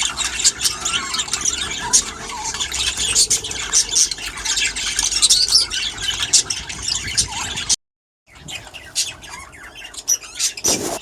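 A flock of budgerigars chattering and squawking in rapid, overlapping chirps. The sound cuts out briefly about eight seconds in, and the chatter is quieter after the break.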